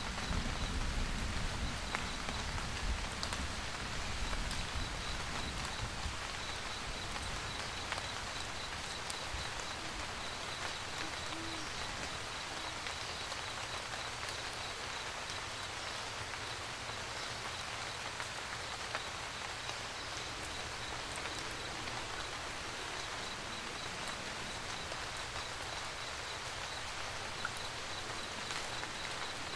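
Steady rain, with the low rumble of distant thunder dying away over the first few seconds. A faint, evenly pulsing high-pitched chirp runs underneath.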